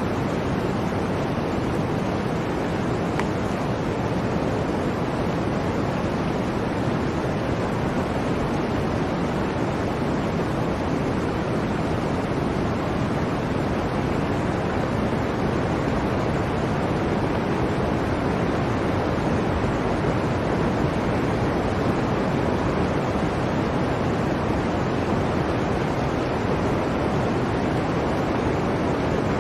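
Blizzard wind blowing, a steady, even rush of noise with no gusts or breaks.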